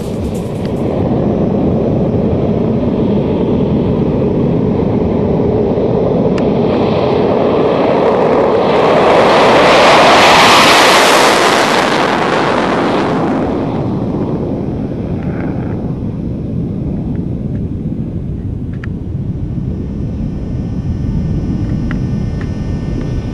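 Jet roar of the Light Combat Aircraft (Tejas) fighter, swelling and rising in pitch as it passes about ten seconds in, then falling and fading back to a steady rumble.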